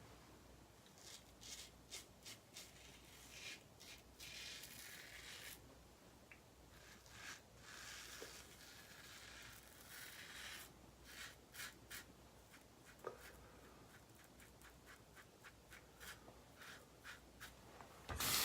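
Razor scraping through shaving lather on stubble in a series of short strokes, faint, with many light ticks in the second half.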